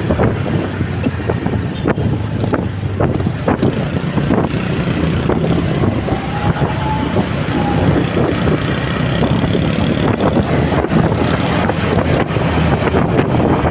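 Wind buffeting the microphone on a moving motorcycle, over a steady engine and road noise.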